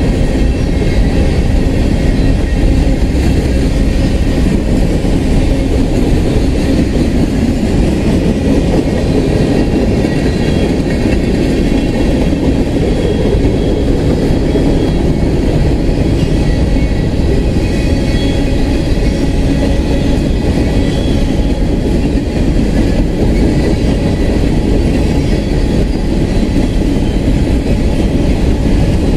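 Freight train cars rolling past close by: a steady, loud rumble of steel wheels on rail, with faint high-pitched tones above it.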